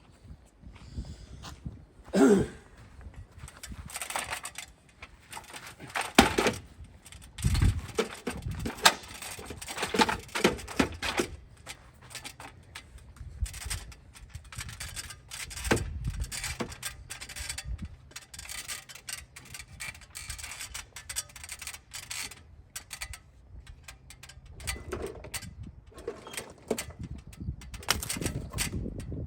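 Irregular clanks and knocks of a ladder being handled and set up against the house, a few of them louder, with a faint steady hum through the middle stretch.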